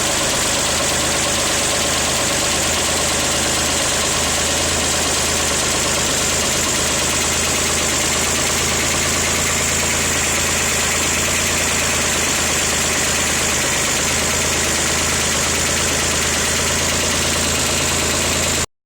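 Chevrolet Corvair's air-cooled flat-six engine idling steadily, running with three of its hydraulic lifters modified to get more oil to them.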